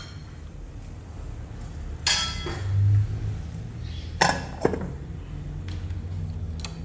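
A utensil knocking and clinking against a pan a few times, some knocks with a short metallic ring, over a low steady hum.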